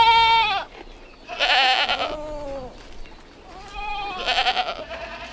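Goats bleating: three drawn-out calls one after another, the later two with a quavering tremble.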